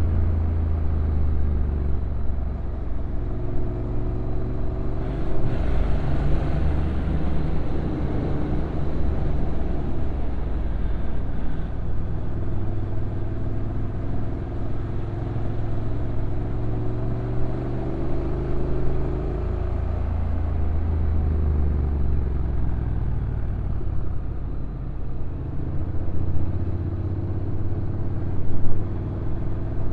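Honda NC750X's parallel-twin engine running on a downhill ride, its note rising and falling several times, over steady road and wind noise.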